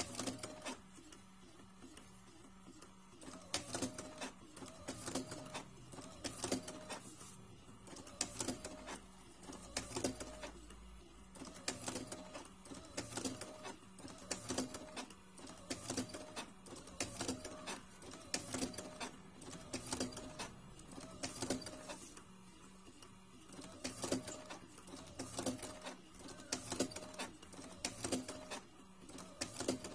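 Makermatik electric cigarette-rolling machine with a tobacco hopper running. It repeats its filling cycle in a regular rhythm of mechanical strokes, about one a second, over a steady motor hum. The strokes start a few seconds in.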